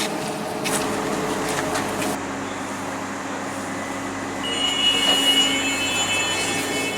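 London tram running, with a steady low hum and, from about four and a half seconds in, a high-pitched squeal.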